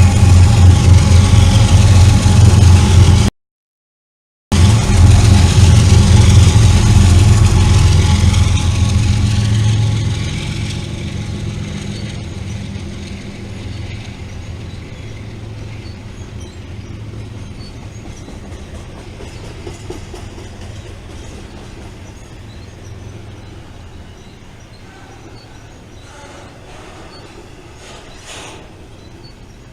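BNSF intermodal freight train passing, its GE ES44 diesel locomotives running with a loud, low engine rumble. After about ten seconds the rumble fades into the quieter steady rolling of the train's cars. The sound cuts out completely for about a second, three seconds in.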